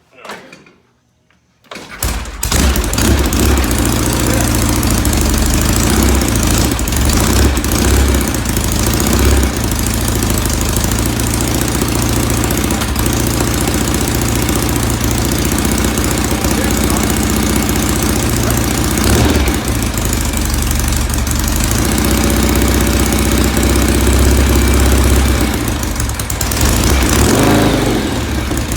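1970 Norton Commando's 750 cc parallel-twin engine firing up from cold on choke about two seconds in, catching at once and then running steadily, its level dipping briefly twice.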